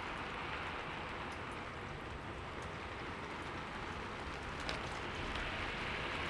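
Steady rain falling on a window pane, an even hiss with scattered faint drop ticks and one sharper drop tap near the end.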